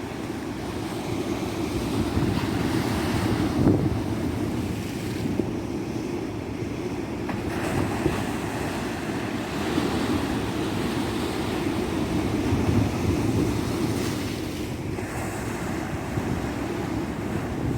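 Ocean surf breaking on a beach, a continuous low rumbling wash that swells and eases every few seconds, with wind buffeting the microphone.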